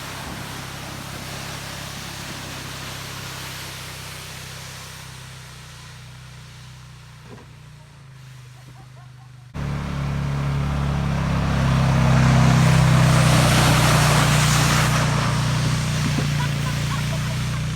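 Motor vehicle engine running steadily and slowly fading, then, after a cut, a louder engine whose rushing noise swells and eases off again, as when a vehicle drives close by.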